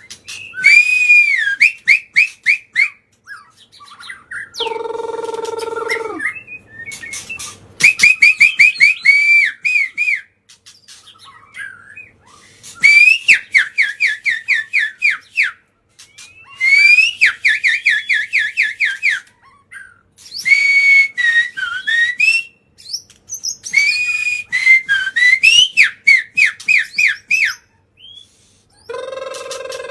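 White-rumped shama (murai batu) singing: loud phrases of rapid, repeated whistled notes, each lasting two to three seconds, with short pauses between them. About five seconds in, and again at the end, comes a lower, harsher call.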